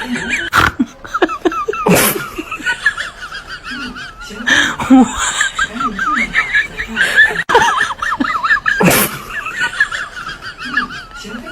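Birds chirping and warbling continuously, with repeated bursts of laughter-like sounds, five loud ones spread through.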